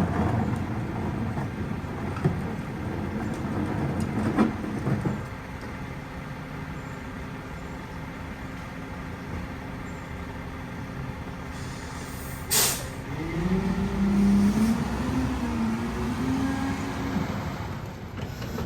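Peterbilt 520 rear-loader garbage truck running, with a short sharp air-brake hiss about twelve seconds in. The engine then revs up, its pitch rising and wavering for a few seconds.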